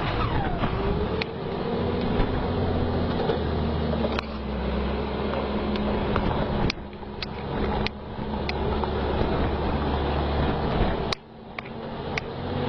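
A truck engine running steadily with a low, even hum, with a few sharp clicks over it. The sound breaks off abruptly twice in the middle and once near the end.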